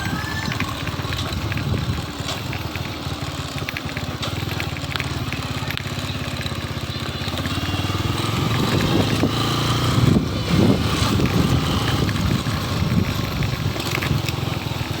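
Motorcycle engine running while riding, its pitch rising about halfway through as it speeds up.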